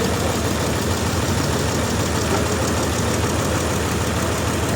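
Sawmill engine running steadily at an even speed, a constant low drone with mechanical noise over it.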